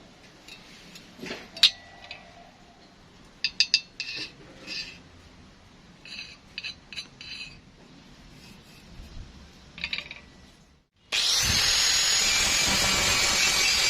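Scattered light clinks and taps of metal pieces being handled, then about eleven seconds in a power tool starts with a rising whine and runs steadily and loudly.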